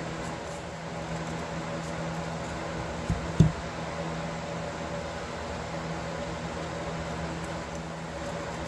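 A small machine's motor or fan humming steadily, with two short low thumps about three seconds in.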